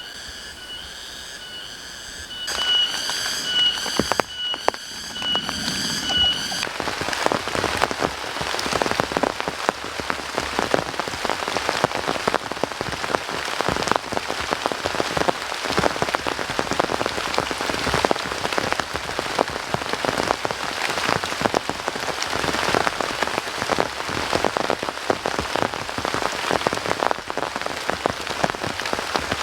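Heavy rain falling: a dense hiss made of countless separate drop hits. For the first six seconds or so a steady high whistling tone with a pulsing buzz above it is heard instead, and it stops abruptly as the rain takes over.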